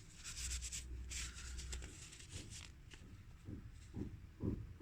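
Light rubbing and scraping of small parts being handled during reassembly of a CD player's disc mechanism, strongest in the first two seconds, then a few soft low knocks near the end.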